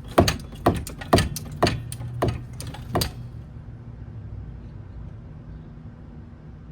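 A run of sharp metallic knocks or clinks about half a second apart that stops about three seconds in, followed by a low steady hum.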